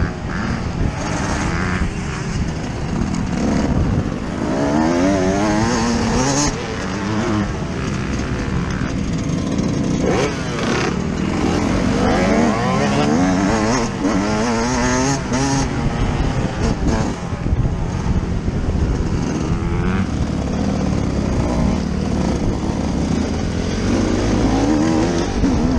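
Yamaha YZ125's single-cylinder 125 cc two-stroke engine, heard from on board while the bike is ridden hard, revving up and dropping back over and over as the rider works the throttle and gears.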